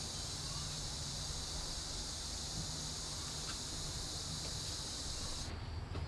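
A steady high-pitched chirring of insects, like crickets, over a low background hum; the chirring cuts off abruptly about five and a half seconds in.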